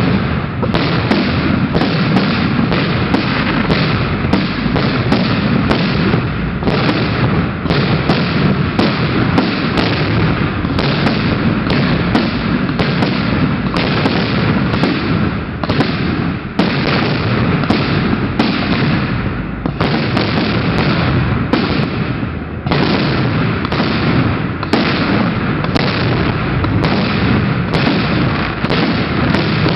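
Fireworks display: a dense, continuous barrage of shell bursts and booms, one blast crowding on the next, with a couple of brief lulls a little past halfway.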